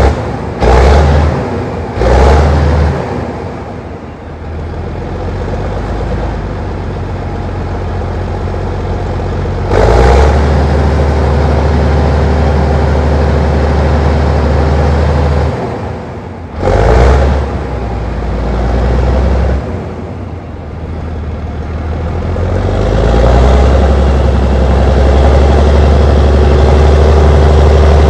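Allis Chalmers HD21 crawler dozer's diesel engine running, revving up and dropping back repeatedly as it works. There are short loud surges just after the start, near 2 s, about 10 s and about 17 s in, and longer louder stretches under load in between.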